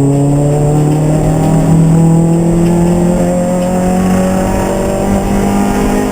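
Race car engine accelerating hard, its pitch rising steadily as the revs climb in one long pull in a single gear.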